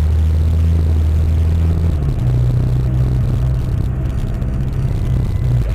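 Loud low humming and vibration from a used car while driving, heard inside the cabin, shifting to a higher pitch about two seconds in. The seller puts the hum on acceleration down to the wheel alignment, which the driver doubts and takes for something more serious.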